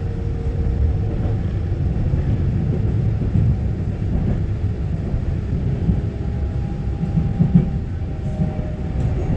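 Interior running noise of a Taiwan Railway EMU900-series electric multiple unit under way: a steady low rumble of wheels on track, with a faint steady whine.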